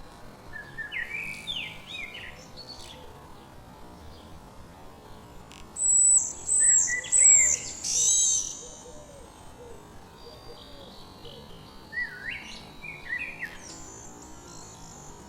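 Songbirds chirping in short bursts of quick rising notes, the loudest burst about six to eight and a half seconds in, with more chirps near the end over a faint steady high hiss.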